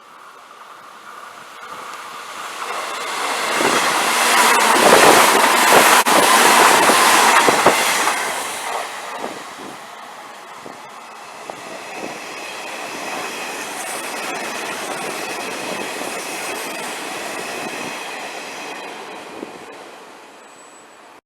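Hanshin Railway red-bodied 'akadō-sha' train passing through a station without stopping: it builds to a loud peak a few seconds in, wheels clacking over the rail joints with some squeal, then a second, quieter swell of running noise before it fades out near the end.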